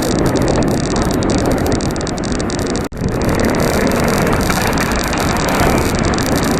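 Steady rushing noise of riding a bicycle along a busy road: wind on the microphone mixed with passing traffic. The sound cuts out for an instant about three seconds in.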